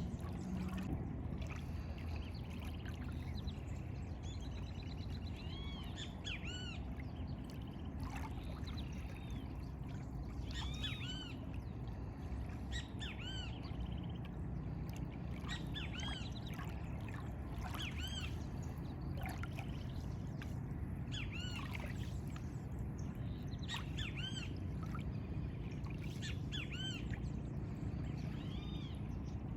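Birds calling, many short arching chirps repeated in quick runs throughout, over a steady low background rumble.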